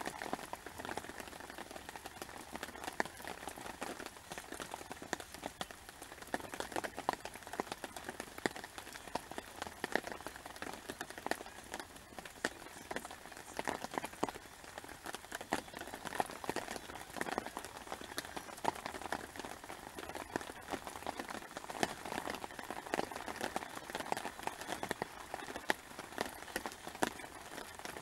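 Steady rain falling, with many separate drops striking close to the microphone.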